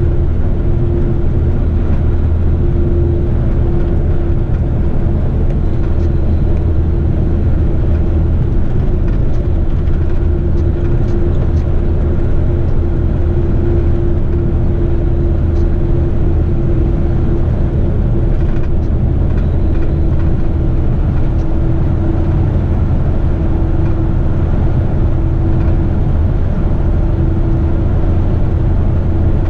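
Heavy rigid truck's diesel engine running steadily on the road: an even low drone with a steady hum above it.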